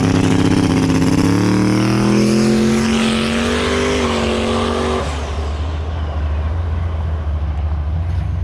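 A drag-racing car's engine at full throttle down the track, climbing in pitch through the gears with shifts about a second and about four seconds in. About five seconds in it lifts off, leaving a low rumble.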